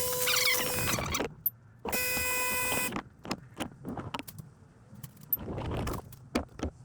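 Sage Bambino Plus espresso machine's pump buzzing steadily in two bursts of about a second each while it runs its descaling cycle, followed by scattered clicks and knocks.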